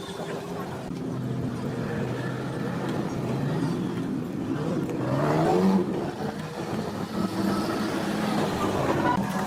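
An engine or motor running steadily, its pitch rising briefly about five seconds in.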